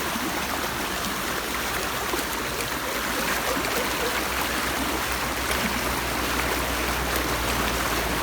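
Steady rush of monsoon-swollen running water from a rain-fed waterfall and stream.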